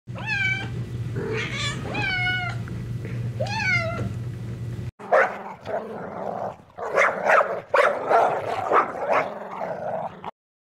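A cat meowing three times, each call rising and falling in pitch. After a cut about five seconds in, a dog barks in short, irregular bursts.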